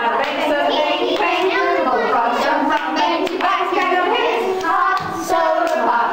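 Group of children's voices, singing and talking over one another, with hand clapping.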